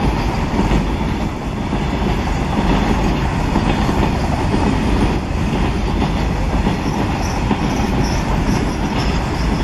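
A train running along the track, its wheels on the rails making a loud, steady noise.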